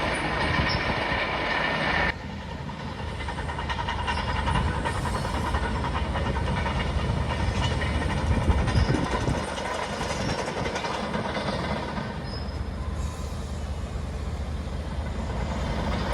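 Heavy engines rumbling steadily, with a high whine over the first two seconds that cuts off suddenly.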